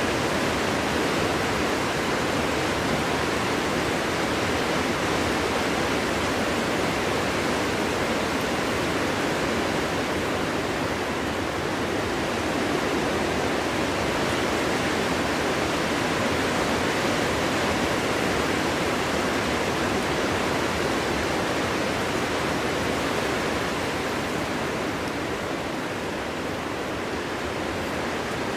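Strong winter wind blowing steadily, a constant rushing noise without gusty whistles, easing slightly near the end.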